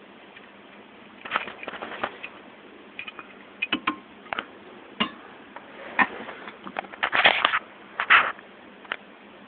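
Scattered scratchy rustles and sharp clicks in irregular clusters from a pixie frog (African bullfrog) feeding.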